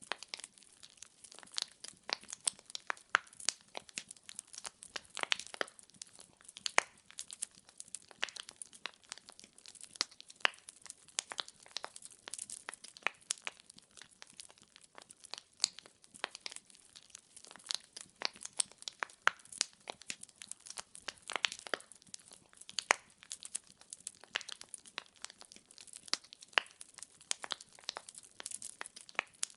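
Wood fire burning in a fireplace: firewood crackling and popping with irregular sharp snaps over a faint steady hiss.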